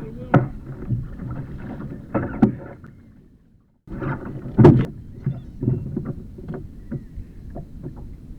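Water splashing and slapping against a fishing kayak, with scattered knocks and bumps on the hull. The sound fades and drops out briefly near the middle, and the loudest knock comes soon after it starts again.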